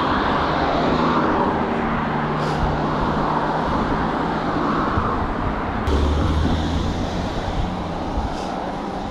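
Steady road traffic noise heard from a moving bike, with a short low bump about six seconds in.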